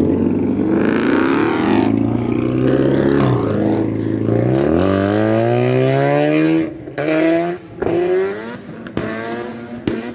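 A car engine revving hard as the car accelerates past, its pitch climbing steadily for about two seconds before cutting off sharply, followed by a few shorter revs.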